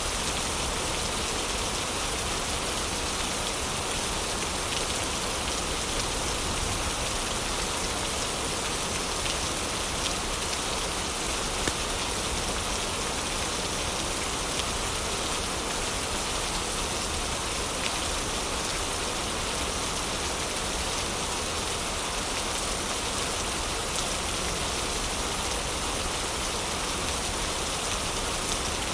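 Heavy rain falling steadily, with a few sharp crackles from a fireplace mixed in.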